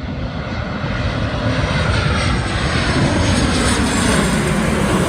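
Jet airliner on approach passing close, its engine noise a rushing roar that grows louder about two seconds in, with a whine that slides down in pitch as it goes by.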